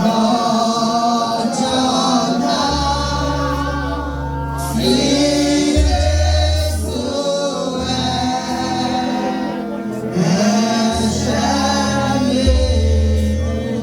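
A congregation and choir singing a Yoruba gospel hymn, with a steady bass accompaniment that changes note every second or two.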